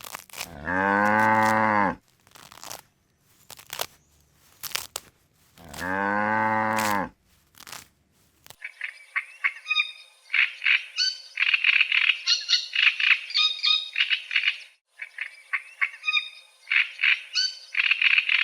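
Two long, steady, low-pitched animal calls about five seconds apart, each lasting just over a second. Then a long run of rapid, high chirping calls that pauses briefly near the end.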